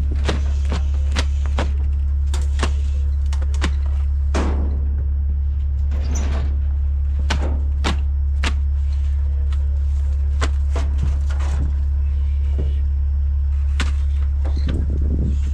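Engine running steadily with a loud low drone, with frequent sharp knocks and clanks at irregular intervals.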